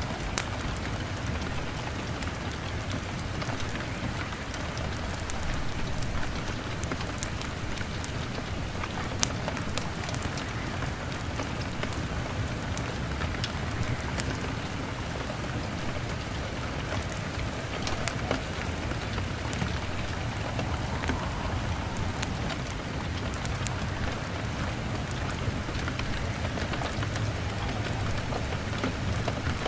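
Steady heavy rain beating on a window glass, with scattered sharp crackles from a log fire.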